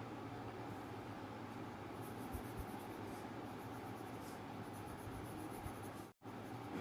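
Faint scratching of a drawing tool on paper over a steady low hum and hiss, the sound cutting out for an instant near the end.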